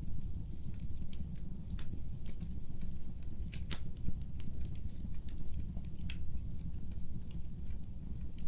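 Fireplace fire crackling: irregular sharp snaps and pops, one louder near the middle, over a low steady rumble of flame.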